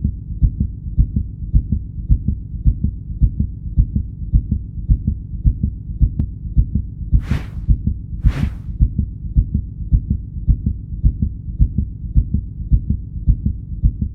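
A heartbeat sound: low double thumps repeating steadily, with two short hissing bursts about seven and eight seconds in.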